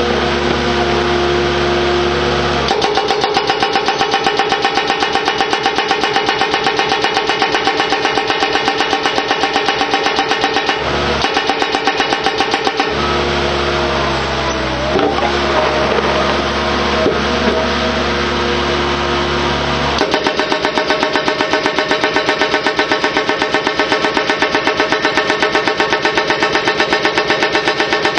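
Stanley 15EX hydraulic hammer pounding in rapid, even blows over the steady running of the carrier machine's engine. The hammering starts about three seconds in, stops for several seconds midway while the engine runs on alone with some rising and falling tones, then starts again.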